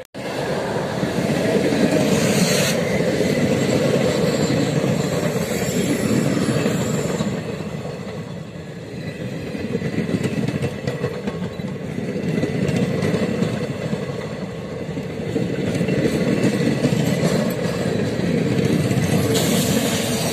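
Passenger train coaches rolling past close by: a steady, loud rumble of wheels on the rails that swells and eases, with a brief higher hiss twice.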